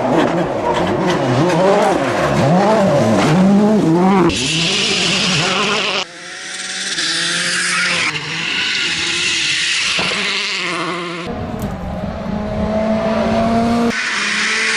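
Rally cars at speed on a gravel stage, in several short clips cut together. In the first few seconds an engine revs up and down through gear changes; then come stretches of tyre and gravel noise with quieter engine sound, and a steadier engine note near the end.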